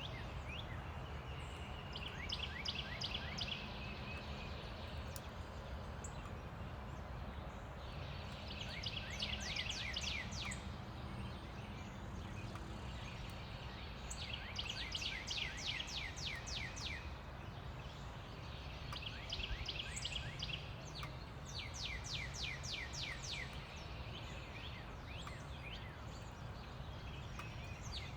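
Songbirds singing, one repeating a fast trilled phrase of rapid high notes every few seconds, over a steady low rumble of distant road traffic.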